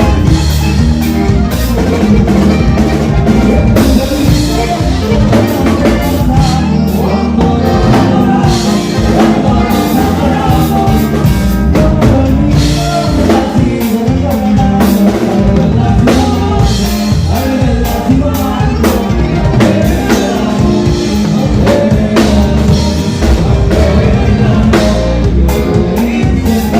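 A band playing a song with a drum kit and a steady beat, with singing.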